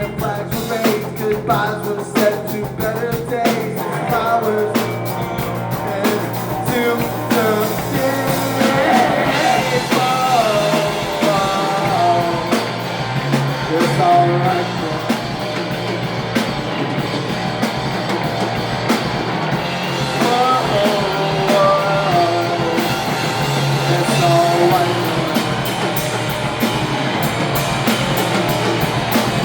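Live surf-punk rock band playing: electric guitars, bass and drums, with a melody line that bends up and down in pitch over the full band.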